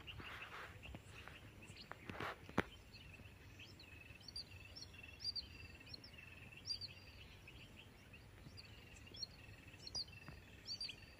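Faint outdoor quiet with small birds chirping: short high chirps repeating every half second or so from about four seconds in. A couple of soft knocks about two seconds in.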